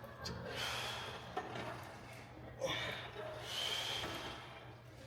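A weightlifter breathing hard and forcefully during a set: two long, noisy breaths, with a short sharp knock about two and a half seconds in.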